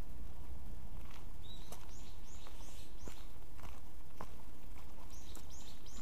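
A small bird repeating a short, high, arched call about three times a second, in two runs, over footsteps on a dirt forest path. A steady low rumble on the microphone runs underneath.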